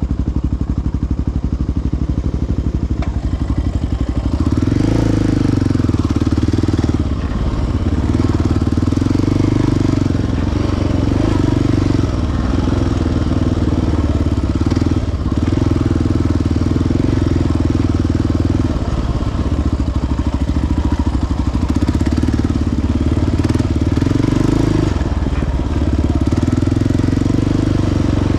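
Single-cylinder four-stroke sport quad engine running along a trail. The throttle opens up about four seconds in, then is eased off briefly several times.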